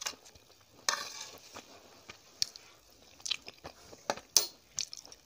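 Close-miked chewing and mouth sounds of someone eating Maggi noodles, with several sharp clicks scattered through it, the loudest about four seconds in.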